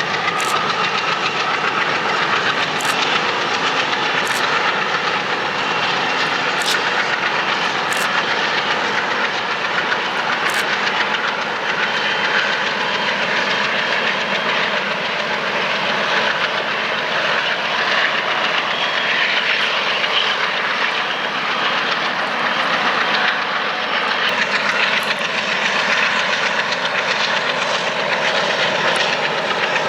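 A train rolling past with a steady noise of wheels on rail, and sharp clicks through the first ten seconds or so.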